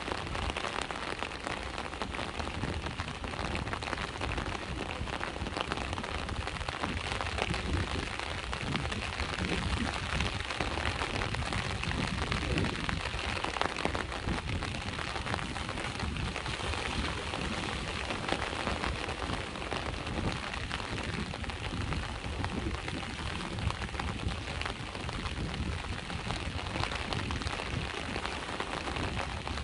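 Steady rain falling on the seashore, a dense even hiss of drops, with a continuous low rumble of sea waves underneath.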